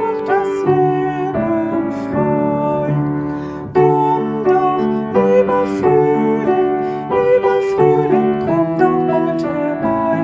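Piano playing a melody over chords, with a short drop in loudness about three and a half seconds in before the next phrase begins.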